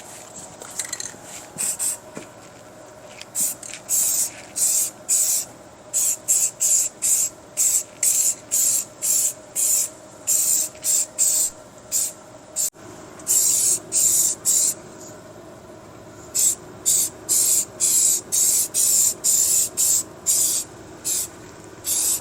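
Aerosol can of Rust-Oleum high-heat primer spraying in many quick hissing bursts, with a few longer passes in the middle.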